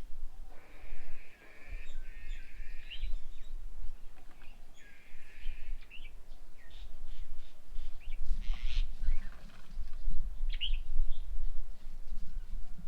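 Birds calling: two drawn-out buzzy, chattering phrases in the first half, then a string of short, sharp chirps.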